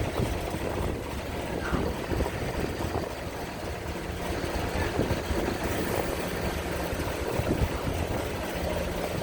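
Ship's engines running with a steady low hum, with strong wind buffeting the microphone in irregular low thumps.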